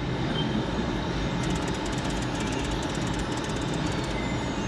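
Casino floor background: a steady din of other slot machines and the room, with a run of fast, faint ticking through the middle.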